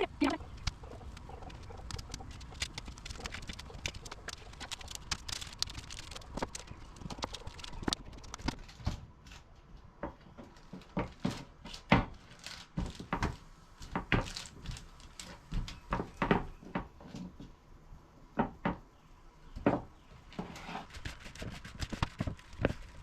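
Irregular series of sharp taps and knocks, sometimes several in a second, over a low steady background noise.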